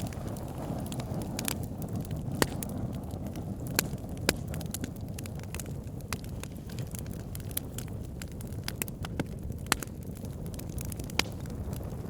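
Wood fire burning with a steady low rumble of flames and irregular sharp crackles and pops from the logs, a handful of them louder than the rest.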